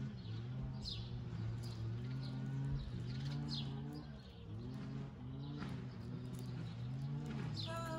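Small birds chirping in short falling notes about once a second, over a low continuous drone that rises and falls in pitch every second or two.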